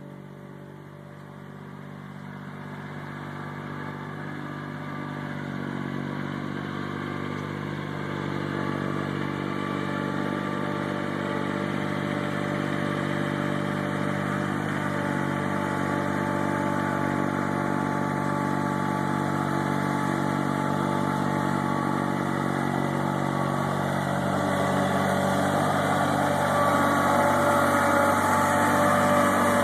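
Tractor engine running steadily, growing gradually louder over the stretch.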